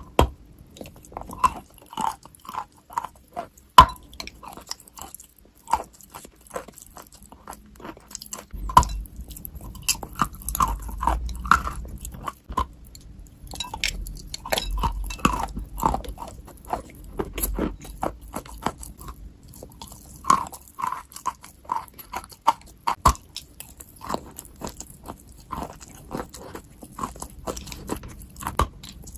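A person biting into and chewing a wet, crunchy material, with short, irregular crunches a few times a second and brief pauses between bites.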